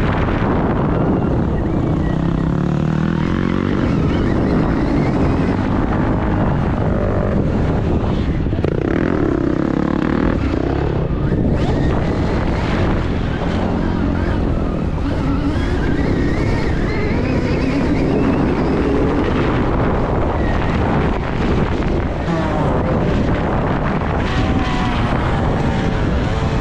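Stark Varg electric dirt bike being ridden: the electric motor's whine rises and falls again and again with the throttle, over steady wind rush on the microphone.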